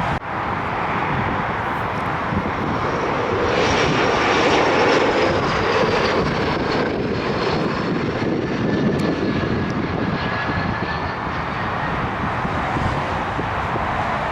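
Airliner engines passing on approach to land, with a high whine that comes in about three seconds in and slowly falls in pitch before fading, over steady wind noise on the microphone.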